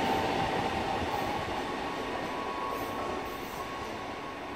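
Electric multiple unit running away along the track after passing close by. Its running noise fades steadily, with a faint steady whine.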